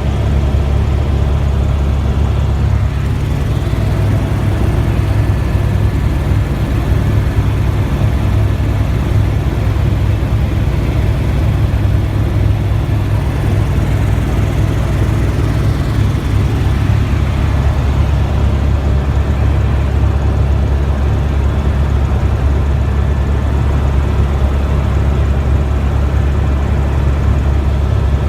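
Helicopter in flight: a loud, steady, low drone of rotor and engine that does not change.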